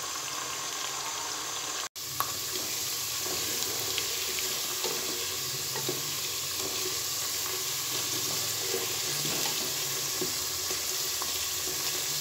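Potato chunks sizzling steadily in hot oil, with scattered small crackles as a wooden spatula stirs them. The sound cuts out for an instant about two seconds in.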